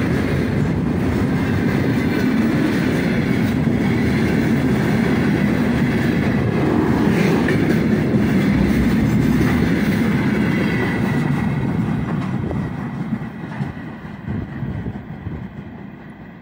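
Long freight train of container flatcars passing close by on the adjacent track, the noise of its wheels and wagons steady, then fading from about twelve seconds in as the end of the train goes by and it moves away.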